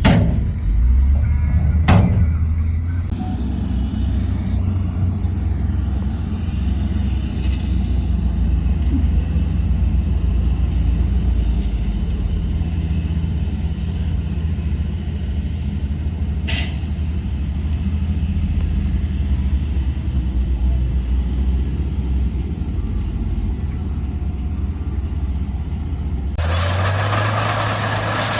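Heavy diesel earthmoving machinery, a dump truck or bulldozer, running steadily with a low hum. There are a few sharp knocks, near the start and about halfway. A loud, steady hiss sets in shortly before the end.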